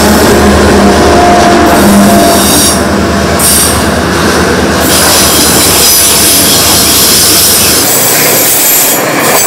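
Aurizon coal train's hopper wagons rolling past close by, steel wheels running loudly over the rails in a continuous rush of noise with a few steady ringing tones. A low rumble underneath drops away about eight seconds in.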